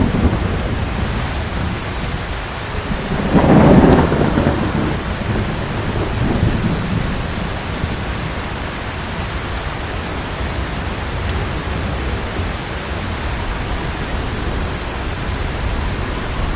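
Heavy rain falling steadily, with a rumble of thunder that swells about three seconds in and dies away over a second or two.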